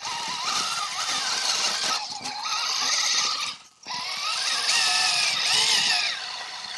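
Axial SCX6 RC crawler's electric drivetrain whining and grinding under throttle, in two runs with a brief break a little past halfway, the whine rising and falling with speed. It is a drivetrain noise the driver suspects comes from either the transmission or the differential, hoping it is the diff.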